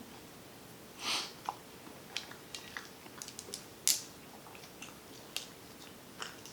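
Close-miked eating sounds: quiet chewing and small wet mouth clicks. There is a short breathy sound about a second in and a sharper click near four seconds.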